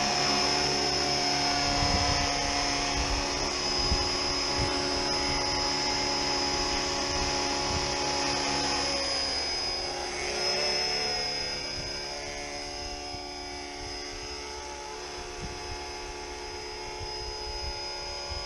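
RC model helicopter in a scale Bell 206 body flying: a steady high motor whine over the rotor sound. About eleven seconds in it gets quieter and some tones slide lower.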